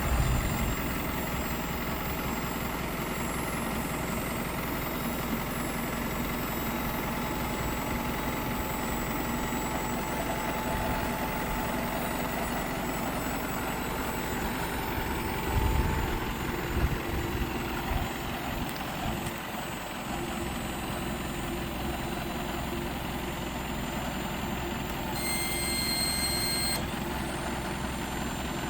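Isuzu 4HK1-TC 5.2-litre turbo diesel engine of a medium-duty truck idling steadily, with a few low thumps in the middle. Near the end a high electronic beep sounds once, held for under two seconds.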